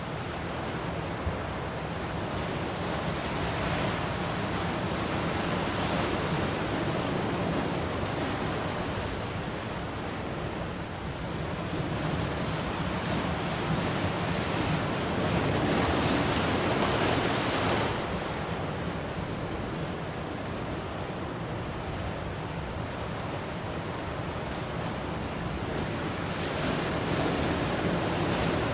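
Ocean surf: a steady wash of waves that swells and eases several times, with the biggest surge about halfway through that falls away abruptly.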